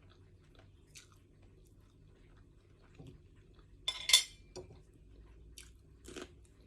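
Eating sounds: a few short clinks and scrapes of cutlery on a plate, the loudest about four seconds in, with quiet chewing between them.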